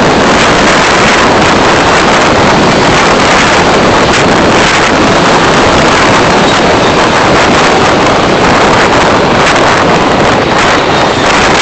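Loud, steady rush of wind and road noise on a dashcam microphone while driving, with no distinct engine tone or separate events.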